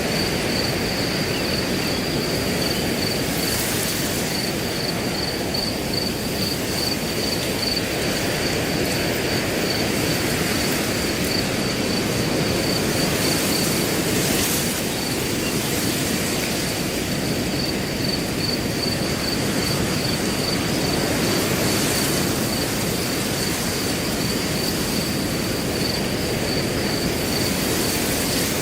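Wind blowing through grass as a steady rushing, with a cricket chirping continuously at one high pitch in rapid, evenly spaced pulses.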